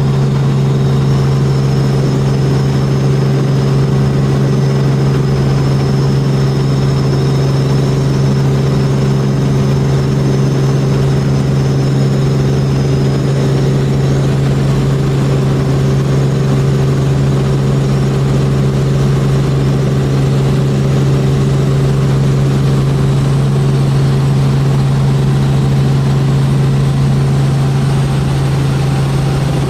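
Tour helicopter in flight, heard from inside the cabin: a loud, steady drone with a strong low hum and higher whining tones above it.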